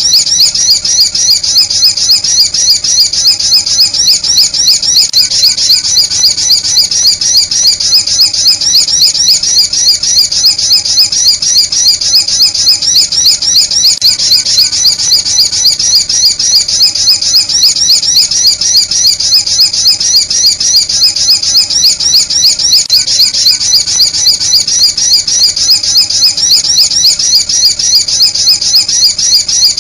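Sunbird lure call: high-pitched chirps repeated in a fast, even run, several a second without a break. A looped call of the kind played to draw sunbirds in.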